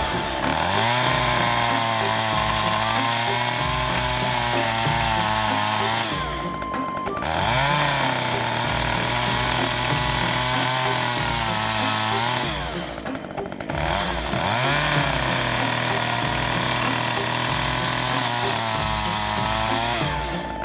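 STIHL MS 194 TC top-handle chainsaw's small two-stroke engine revved up and held at high speed three times, dropping back briefly between each, soon after it was finally started.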